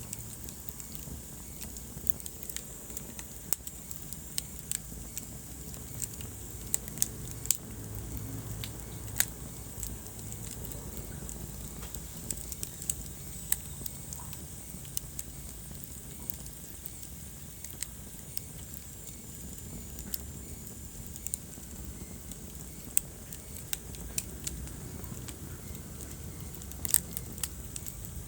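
Wood fire burning in a fireplace: a steady low rumble of flames with irregular sharp crackles and pops, several a second at times.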